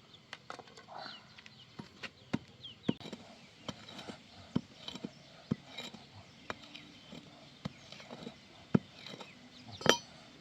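Hand-tool work: irregular sharp knocks and taps, roughly one a second and varying in strength, the loudest near the end. Faint short high chirps sound between them.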